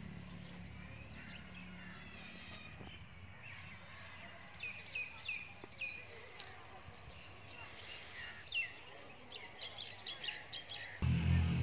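Small birds chirping, a few quick series of short high chirps about five seconds in and again near the end, over faint background noise. A louder low sound cuts in abruptly near the very end.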